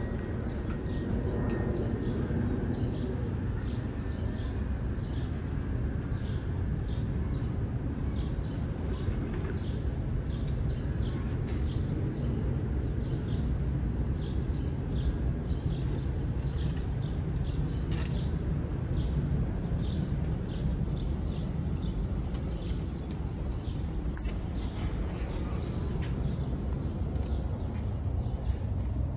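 A small bird chirping over and over, a short high chirp about every half second, over a steady low rumble of outdoor background noise.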